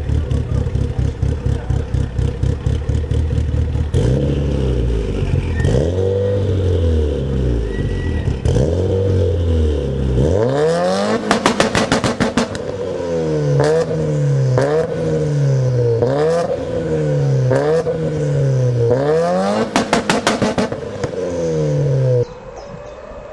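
Car engine idling with a steady pulse, then revved over and over, each rev rising and falling back, about one a second in the later part. The sound cuts off suddenly near the end.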